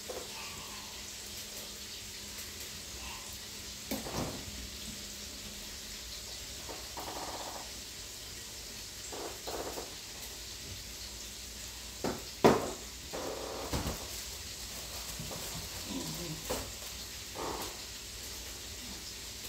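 Chicken frying in grease in a pan, a steady sizzle, with scattered knocks and clatters of kitchen things being handled; the loudest is a sharp knock about two-thirds of the way through.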